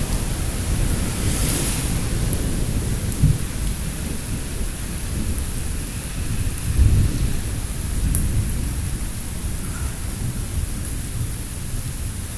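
Thunder rumbling low over steady rain, with a louder low swell about seven seconds in.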